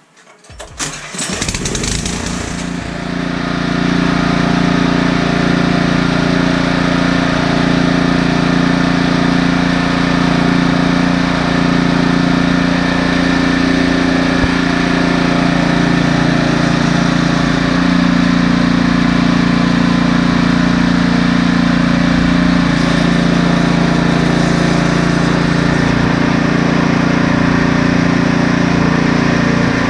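Husqvarna snowblower engine starting about a second in, building over a couple of seconds, then running loud and steady.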